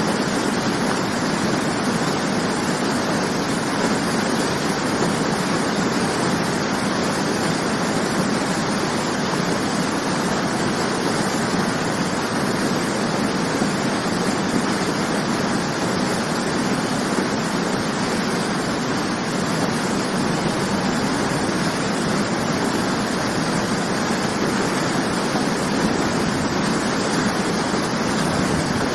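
Waterfall, its falling water making a steady, unbroken rushing noise.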